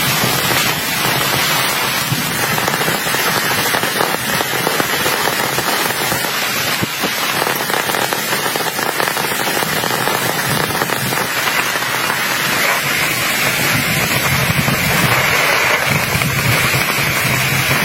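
Heavy rain falling steadily, many drops striking a surface close by in a dense, continuous crackle.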